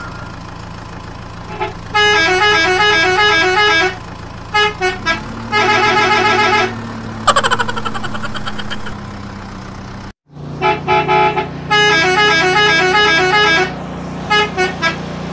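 Electronic horn-and-beep jingle: rapid, chirpy melodic beeping in bursts of one to three seconds, with short blips in between and a falling whistle-like glide in the middle, over a steady low hum.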